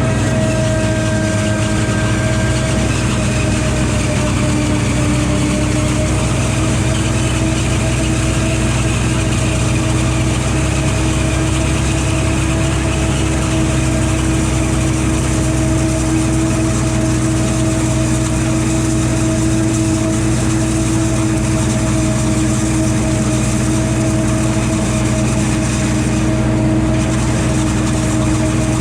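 Valtra T234 Direct tractor's six-cylinder diesel engine running at steady revs, with a constant whine over the engine note and a slight dip in pitch a few seconds in.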